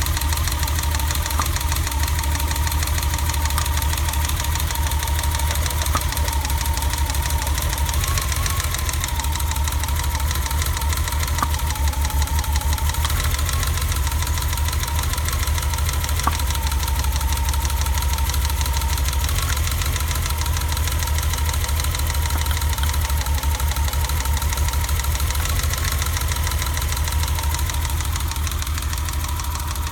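BMW E30 engine idling with a steady low throb, still misfiring after a new distributor cap and rotor. A faint wavering whine runs over it.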